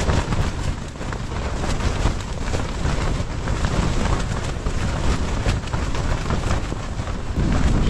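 Strong gusting high-altitude wind buffeting the microphone, with rapid crackling slaps through the roar.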